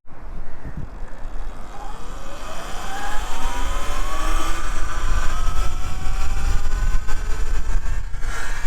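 Segway X160 electric dirt bike's motor whining, the whine rising steadily in pitch over several seconds as the bike speeds up. Heavy wind rumble on the microphone runs underneath.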